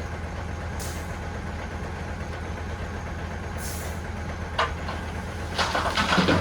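Heavy diesel machinery engine running steadily with a low drone. Two short high hisses come about a second in and a little past the middle, and there is louder irregular activity near the end.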